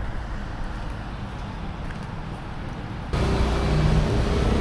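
Town street traffic: a steady low rumble of vehicles, which about three seconds in turns suddenly louder, with the droning of a nearby engine.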